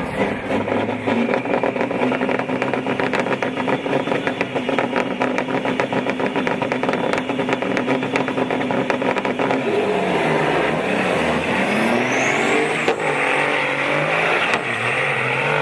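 Truck engine running with a fast, even pulsing beat. About ten seconds in its pitch dips, then climbs as it revs, with a faint rising whistle near the end.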